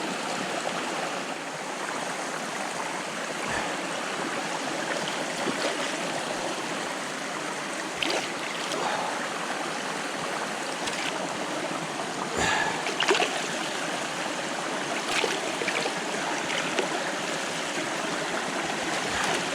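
Freshwater creek running steadily over rocks, with a few light clicks and knocks through it.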